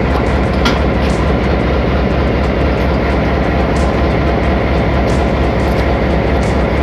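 Passenger train running along the line: a steady, even rumble of the moving carriages, with a few faint clicks.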